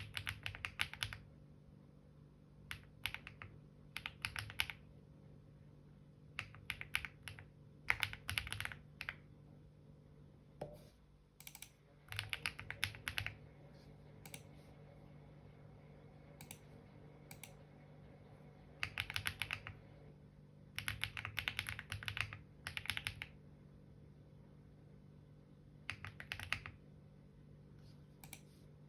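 Typing on a computer keyboard in short bursts of rapid key clicks with pauses between them, over a faint steady low hum.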